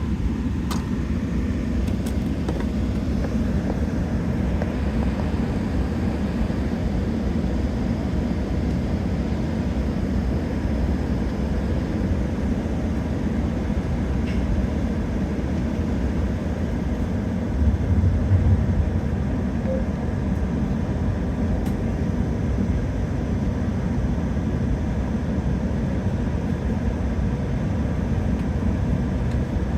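Steady low cabin rumble of a Boeing 777-300ER on the ground before its takeoff roll, its GE90 engines running at low thrust with no spool-up. A brief heavier low bump comes about 18 seconds in.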